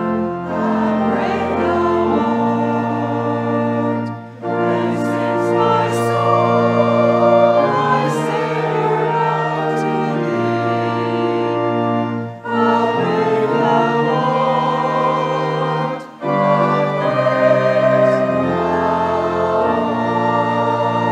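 Voices singing a hymn with pipe-organ-style organ accompaniment, in long held lines with short breaks between phrases.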